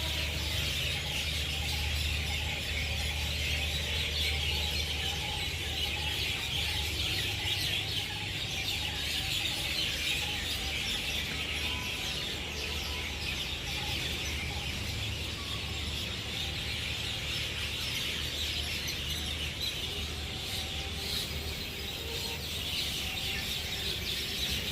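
Outdoor ambience: birds calling over a steady high-pitched buzzing chorus and a low rumble, with a repeated wavering call for the first half or so.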